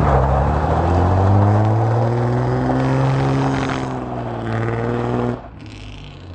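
Datsun 280Z's 2.8-litre inline-six running under load as the car drives, its note rising a little and then holding steady. About five seconds in it drops abruptly to a much quieter low rumble.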